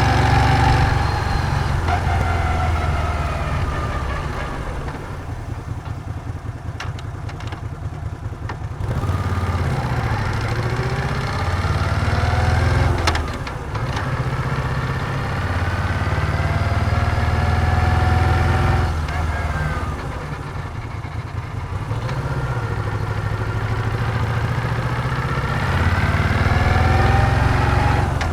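Moto Guzzi V7's air-cooled transverse V-twin engine under way: the revs fall and it runs quieter for a few seconds, then it picks up again, its pitch rising over several long stretches, each broken by a short dip.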